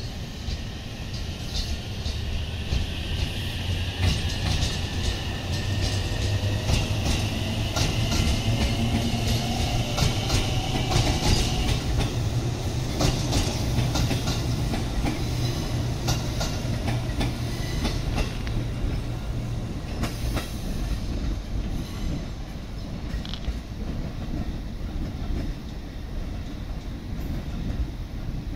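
JR Central 313 series electric train passing close by: wheels clacking over rail joints over a steady rumble, with a motor whine rising slowly in pitch. It fades as the train moves away in the second half.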